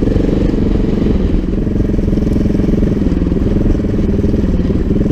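Montesa Cota 4RT trials bike's four-stroke single-cylinder engine running steadily at low revs, with small rises and falls of the throttle.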